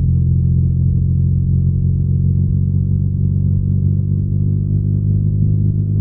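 BMW R nineT's 1170 cc air/oil-cooled boxer twin running at a steady engine speed under way, a low, even exhaust note with no clear revving.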